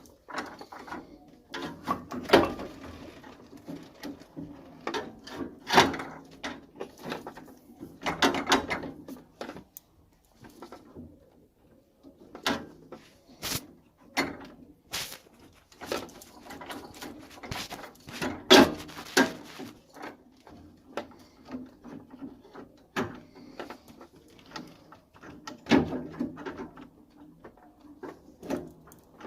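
Irregular clicks, knocks and short scrapes of hand tools and metal boiler parts being handled, with a few louder knocks scattered through.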